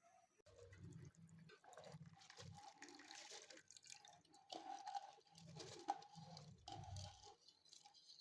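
Faint liquid sounds of water or stock dripping and moving in a cooking pot, with a few soft clicks, the sharpest about six seconds in.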